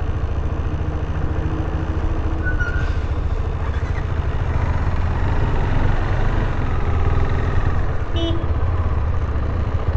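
KTM 390 Adventure's single-cylinder engine running steadily while riding, with wind and road noise on the mic. The rider hears a rattle in it that he puts down to some loose bolt.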